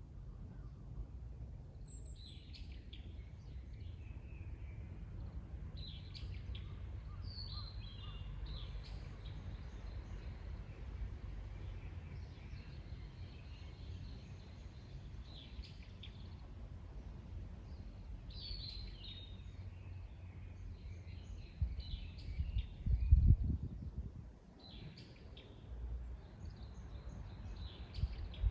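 Wild birds singing in repeated short chirping phrases over a steady low outdoor rumble. About 22 seconds in, the rumble surges briefly and loudly for a second or two.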